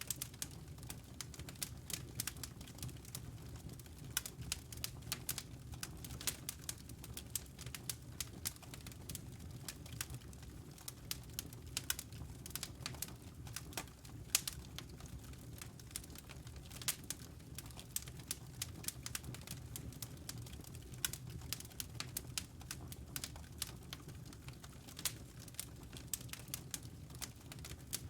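Wood fire burning in a fireplace: a steady low rumble of flames with many small irregular crackles and pops from the burning logs.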